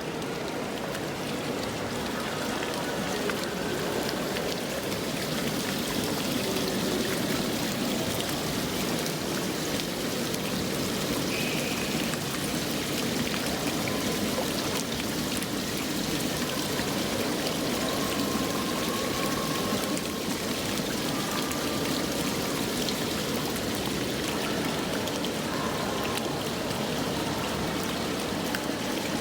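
Steady sound of running water, unbroken throughout.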